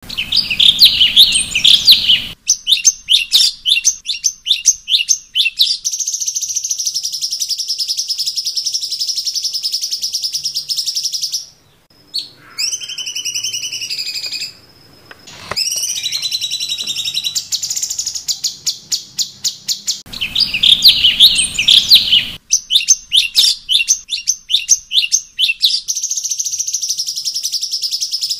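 Cucak cungkok singing its loud, clear song: a burst of quick chirps, then a long rapid trill, a short break, swooping whistled notes and another fast trill. The same sequence starts over about twenty seconds in.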